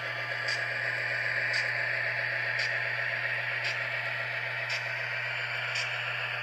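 An HO-scale GP15T model's Tsunami sound decoder plays a turbocharged EMD 645E prime mover through the locomotive's small speaker, running steadily with a constant low hum. A light tick comes about once a second.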